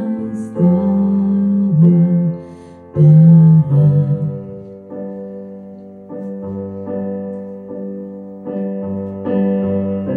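A woman sings a slow Russian ballad to piano accompaniment, holding long notes on two phrases over the first four seconds. The piano then carries on alone with sustained chords.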